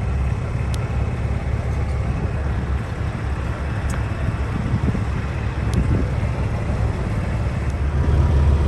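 Diesel semi truck engine running with a steady low rumble, getting louder near the end.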